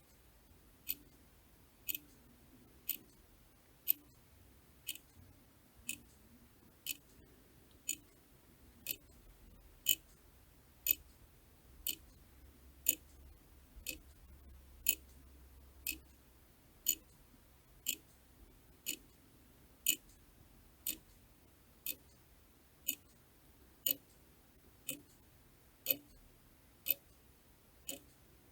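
A clock ticking steadily, one sharp, crisp tick about every second.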